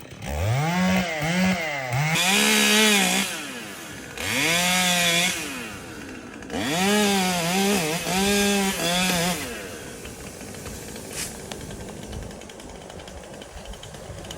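Gas chainsaw revved up and down in a series of bursts, its pitch climbing and dropping with each, with the rasp of the chain cutting wood during the longer bursts. After about nine seconds it falls back to a quieter, even background.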